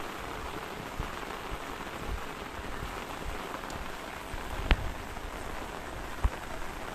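Steady rain falling at night, an even hiss of drops, with a few louder single drips striking nearby, the loudest about two-thirds of the way through and another near the end.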